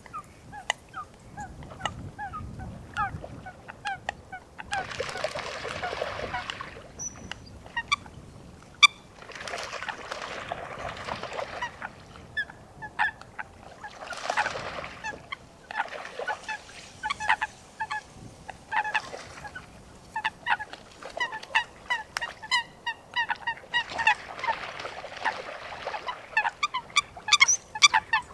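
Eurasian coots calling: many short, sharp calls repeated in quick series, with a few stretches of rough noise between runs of calls.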